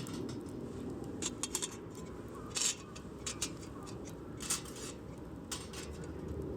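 Wood campfire crackling: scattered sharp pops and snaps over a low steady hiss, the loudest pop about two and a half seconds in.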